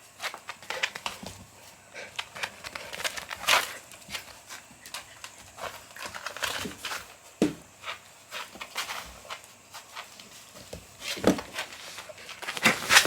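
A kitten playing rough: scattered scuffs, rustling and soft thumps as she scrambles and pounces, with a dull thump about halfway through and a louder flurry near the end.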